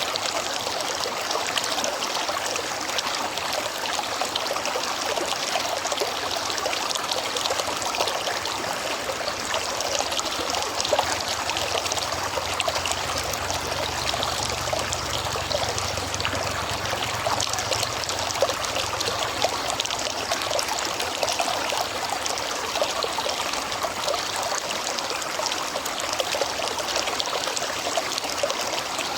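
River water flowing steadily with a constant trickling splash. A faint low rumble rises and fades again in the middle.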